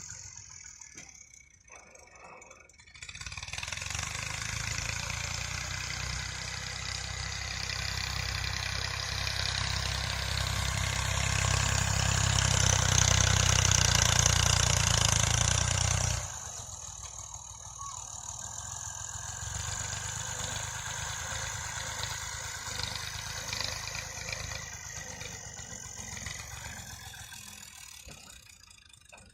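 Massey Ferguson tractor's diesel engine running. It comes in about three seconds in and grows steadily louder to a peak, then drops suddenly about sixteen seconds in. It carries on at a lower level and fades near the end.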